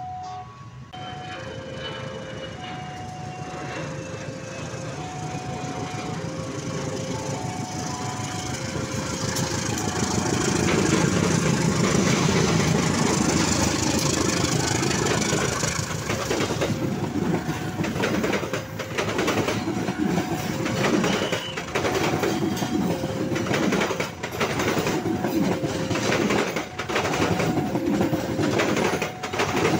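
A KAI CC 201 diesel-electric locomotive approaches and passes close by, loudest about a third of the way in. Its passenger coaches follow, their wheels clattering rhythmically over the rail joints. Throughout, a level-crossing warning bell rings in two alternating tones.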